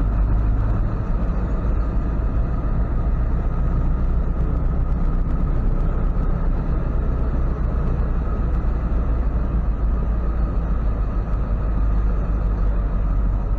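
Ford F-550 tow truck's engine running steadily at low speed as the truck is maneuvered: a steady, even low rumble.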